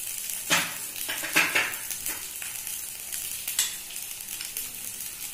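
Grated vegetables sizzling in oil in a steel kadai, a steady frying hiss, with a few short scrapes and knocks of a wooden spatula against the pan.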